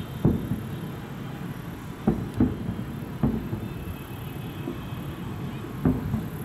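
Aerial fireworks shells bursting in the sky: about five deep booms at uneven intervals, two of them close together about two seconds in, over a steady low rumble.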